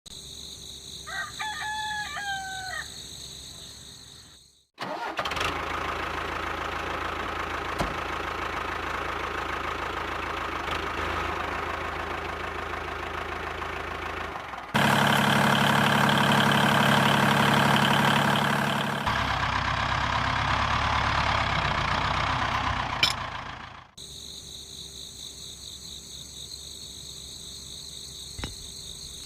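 A rooster crows once. About five seconds in, after a sudden cut, a machine starts running steadily. Partway through it gets louder with a deeper hum, then changes again and cuts off abruptly about six seconds before the end.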